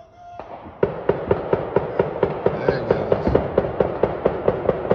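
Fireworks going off in the neighbourhood at midnight: just under a second in, a sudden loud start gives way to a rapid, even run of sharp bangs, about four a second.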